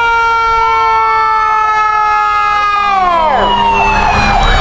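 Fire truck air horn sounding one long blast that sags in pitch and cuts out about three seconds in, over a wailing siren that switches to a fast yelp near the end.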